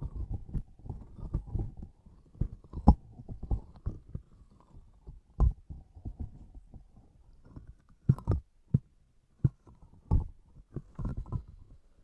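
Close-miked squishing and pressing of sticky, squishy objects: irregular soft low thuds and squelches, with a few sharper sticky clicks.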